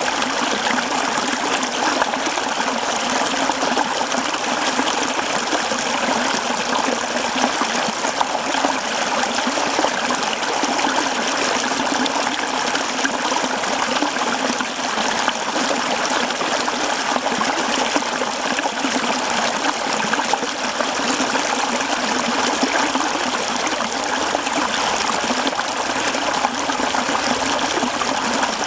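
Mountain stream flowing over rocks, a steady close rushing and trickling of water.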